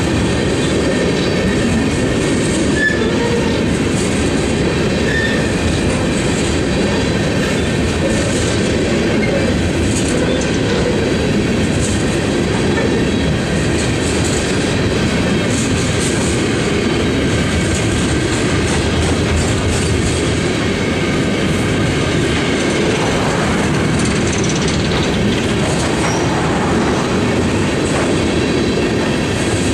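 Empty steel coal gondolas of a unit train rolling past: a steady rumble of steel wheels on rail, with clicking from the wheels over the track and faint thin wheel squeal above it.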